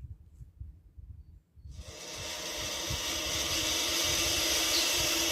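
Turkey vulture chick hissing, a steady breathy hiss that starts about two seconds in and holds, after faint low rumbles.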